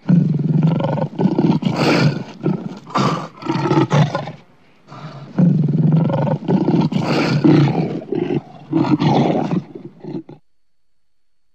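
Lion roaring in two bouts, each about five seconds long and made of a run of short, rough roars, with a brief pause between them.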